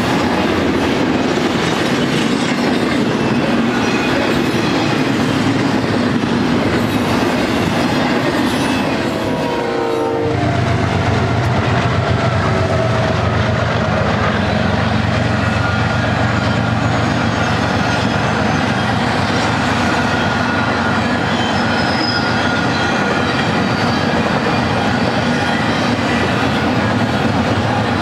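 Double-stack intermodal freight train passing close by, its well cars rumbling and clattering over the rail joints. About ten seconds in, a set of mid-train GE diesel locomotives goes by: a whine falls in pitch as they pass, and a deep engine drone continues under the car noise.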